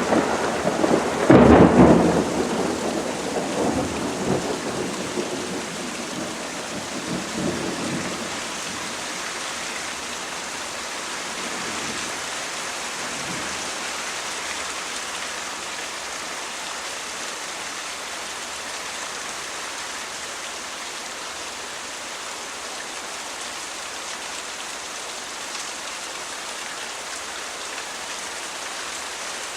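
Thunderstorm: steady rain falling, with a loud thunderclap about a second and a half in that rumbles away over the next several seconds, leaving only the even hiss of rain.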